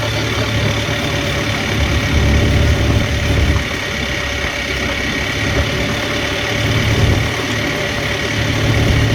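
Small tour boat's engine running steadily, a continuous low rumble with a steady hum over it.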